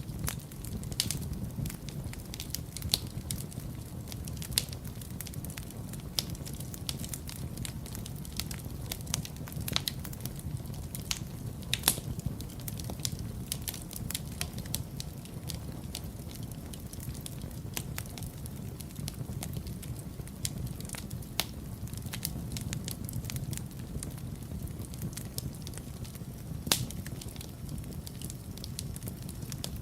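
Wood fire burning in a fireplace, with a steady low rumble of flames and irregular sharp crackles and pops. The pops are loudest about 12 seconds in and again near the end.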